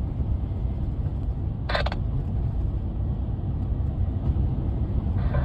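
Steady low road and engine rumble of a moving vehicle heard from inside the cabin. A short burst of sound comes about two seconds in.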